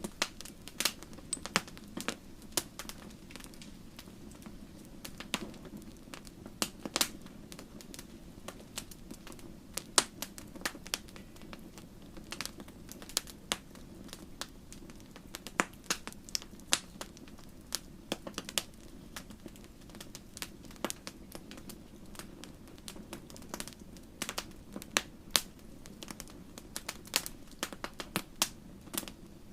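Wood fire crackling in a fireplace: irregular sharp pops and snaps, several a second at times, over a steady low hiss of burning.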